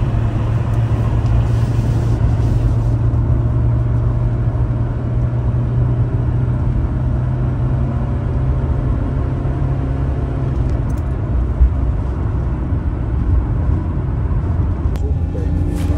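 Mercedes W124 200D's four-cylinder diesel engine running under way, heard from inside the cabin as a steady low drone mixed with road noise.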